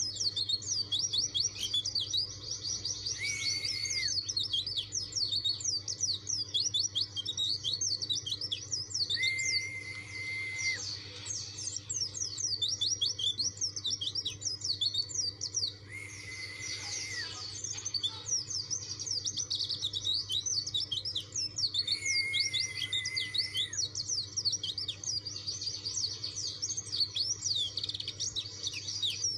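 Pleci dakun (white-eye) singing a fast, continuous twittering song. About every six seconds a held lower whistle lasting over a second breaks in, with a faint steady hum underneath.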